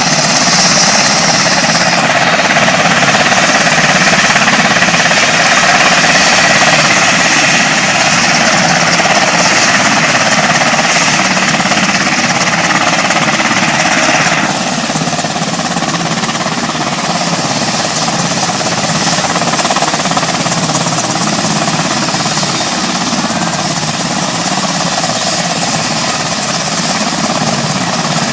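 Aircraft engine running loud and steady with a rapid pulsing throb; about halfway through, its higher hiss drops away and it gets a little quieter.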